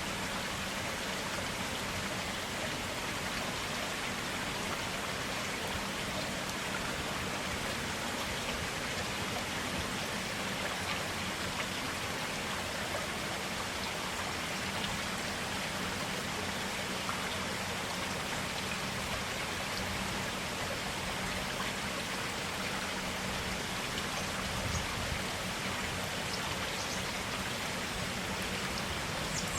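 Running water of a small stream, a steady even rush without pause.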